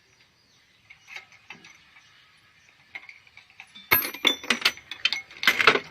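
Metal tools and machine parts clicking and clinking: a few faint ticks, then about four seconds in a quick run of loud sharp metallic clicks and knocks.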